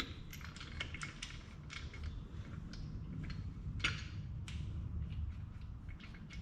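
Irregular light clicks and knocks of engine-mount parts and bolts being handled, with one sharper knock about four seconds in, over a low steady hum.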